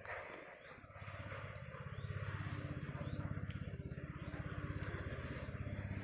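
An engine running with a steady, low, rapidly pulsing throb. It comes in about a second in and grows louder a second later.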